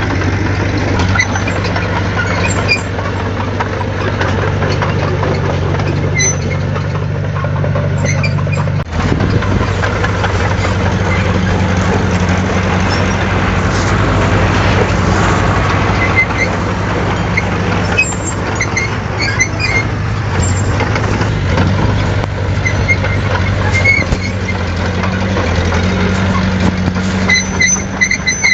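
Heavy diesel engine of earthmoving machinery running steadily, with a constant low drone, a brief break about nine seconds in, and short high-pitched squeaks now and then.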